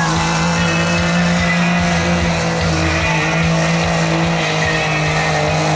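2006 Dodge Ram 2500's 5.9-litre Cummins inline-six turbodiesel running hard at high, steady revs under the load of a pulling sled.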